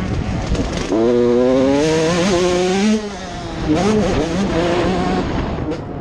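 Motocross motorcycle engine revving: the pitch climbs about a second in and holds high for about two seconds, then drops away. Shorter revs that rise and fall follow.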